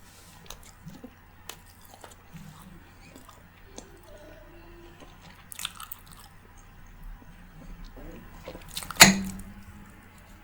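Close-miked chewing and mouth sounds of someone eating rice, daal and curry, with soft wet clicks throughout. About nine seconds in comes one much louder sharp sound.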